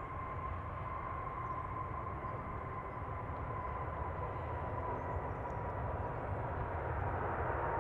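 Jet airliner engines: a steady rumble with a high whine that slowly falls in pitch, growing gradually louder.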